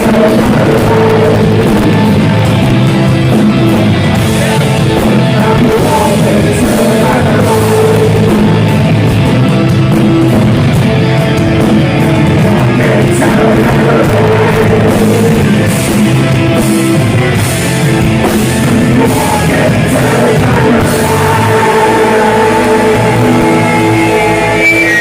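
Heavy metal band playing live, loud and without a break: distorted electric guitars and drum kit, with singing.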